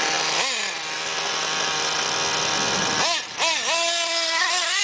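1/8-scale RC car's .21 nitro two-stroke engine running at high revs. Its pitch dips and climbs again with the throttle about half a second in and around three seconds in, then holds a steady, slightly wavering buzz.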